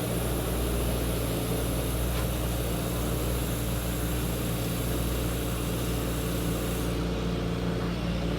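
A motor running steadily with a constant low hum that does not change in pitch.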